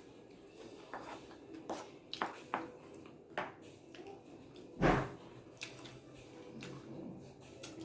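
Close-up eating sounds: crunching and chewing of loaded nacho chips, short irregular crunches and mouth clicks, with one louder crunch about five seconds in.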